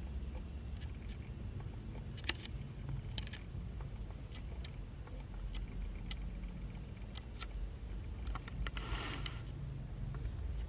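18-inch Niga FC05-50 mini ceiling fan running with a steady low hum and scattered light clicks. It is off-balance with two heavier mismatched blades fitted, which make it wobble.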